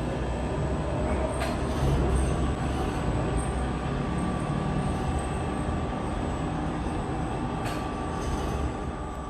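Sawmill machinery running: a steady mechanical rumble with a thin, steady whine over it, and two short clicks, one about a second and a half in and one near the end.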